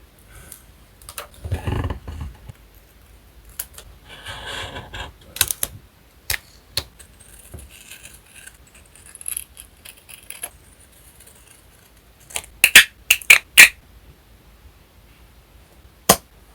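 Paper-crafting handling sounds: paper and sticker sheets rustling, then a quick run of loud sharp clicks, and a single click near the end.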